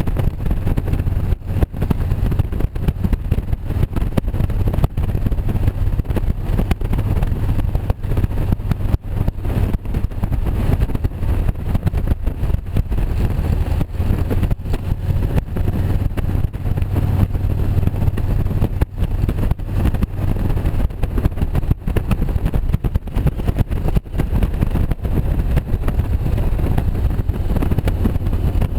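Motorcycle engine running steadily while riding, a constant low hum under a dense rush of air noise.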